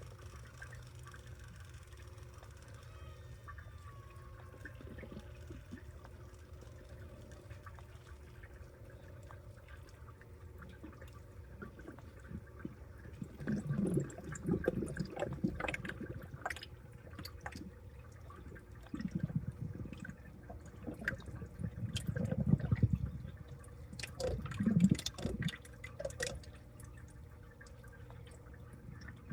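Water sloshing, splashing and dripping inside a washing machine in several loud surges through the second half, over a steady low hum.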